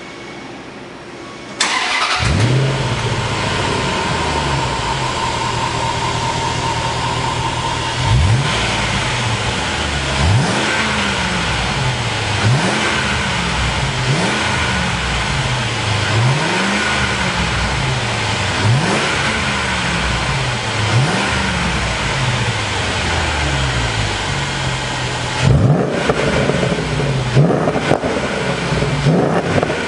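Land Rover Discovery 4 engine through a variable-valve (E.V.C) aftermarket exhaust. It idles quietly, then becomes suddenly much louder about a second and a half in, and after several seconds of steady idle it is revved in repeated throttle blips about every two seconds, with quicker blips near the end.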